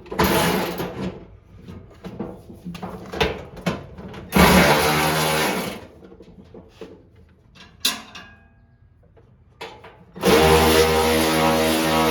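Small handheld electric power tool running in two bursts, a short one about four seconds in and a longer steady run from about ten seconds in, with clicks and knocks of handling parts in between.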